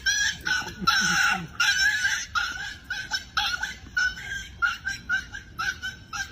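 A bird calling over and over in quick, loud, shrill squawks, a few of them held longer near the start.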